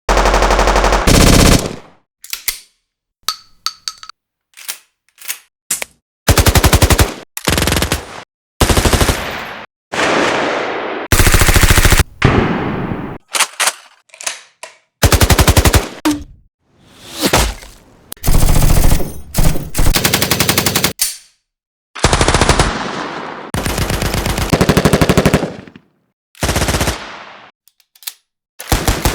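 A run of separate gunfire sound effects played one after another with short silent gaps: mostly bursts of automatic fire lasting a second or two, with a few short single sharp sounds among them in the first few seconds.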